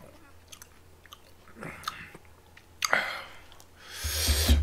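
Close-miked chewing and mouth sounds with scattered small clicks. Near the end comes a louder rustling burst with a low thump, the loudest sound here.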